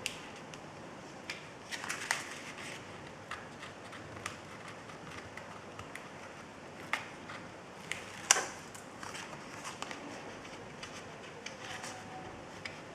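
Paper and cardstock being handled: light rustles and taps with a few sharp clicks, the loudest about eight seconds in, as a sheet of pattern paper is stuck down onto cardstock with double-sided tape.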